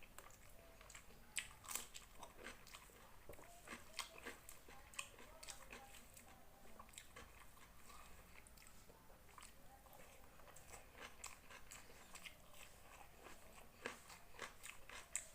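A person eats a rice-and-vegetable meal close to the microphone. The chewing and crunching come with quick, irregular wet mouth clicks and smacks, quiet throughout.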